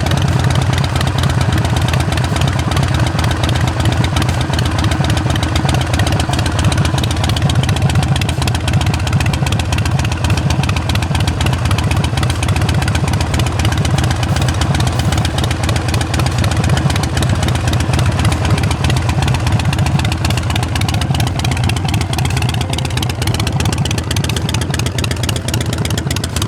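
A carbureted 2006 Harley-Davidson XL1200R Sportster's air-cooled 1200 cc V-twin idling steadily through Vance & Hines Short Shots exhaust. It cuts off suddenly at the very end.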